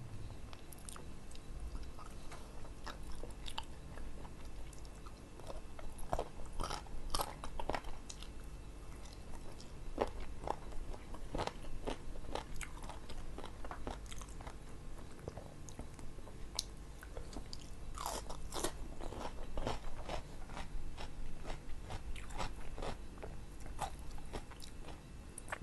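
Close-miked chewing and biting of spicy grilled chicken (ayam taliwang) eaten off the bone by hand: a run of irregular wet clicks and crunches, busiest about six to eight seconds in and again around eighteen to twenty seconds.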